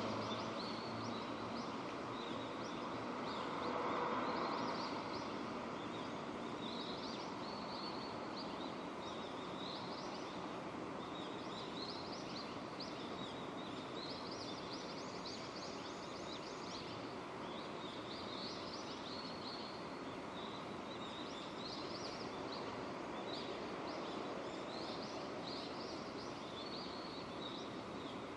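Steady rainfall, with birds chirping over it every second or two. A brief louder swell of noise comes about four seconds in.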